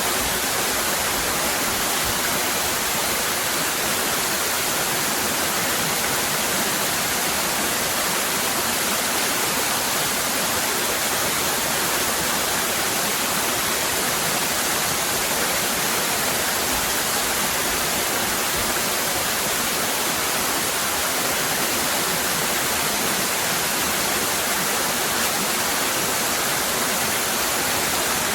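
Waterfall cascading, a steady unbroken rush of water that is strongest in the upper range.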